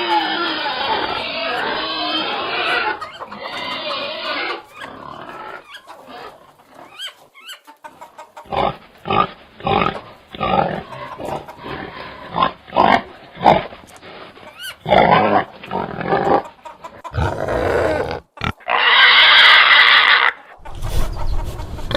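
Pigs squealing loudly for the first few seconds. A run of short grunts follows, about two a second, then another loud squeal near the end.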